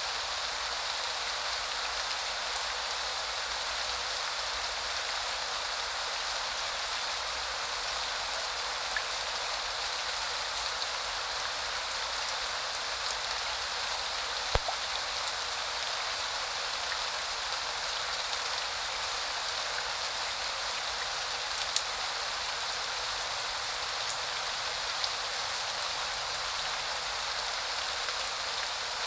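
Steady spring rain falling in an even hiss, with a few louder single drops striking close by.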